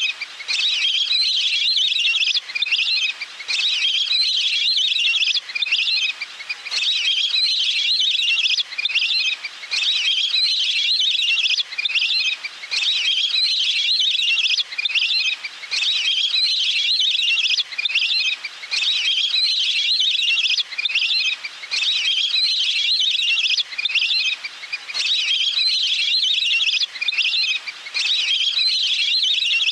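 Wild duck calls from a bird-lure playback: dense, high chirping and whistling notes running in phrases a few seconds long with brief breaks between them, repeating over and over.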